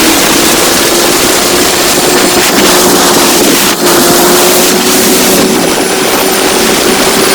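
Motorcycle running steadily at riding speed, its engine note holding an even pitch under loud wind rushing over the microphone.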